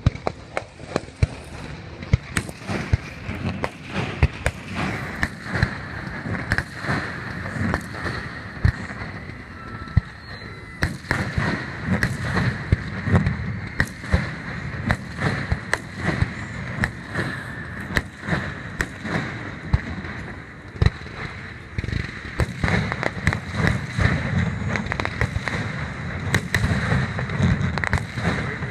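Fireworks display in a dense barrage: many sharp bangs and booms in quick, irregular succession.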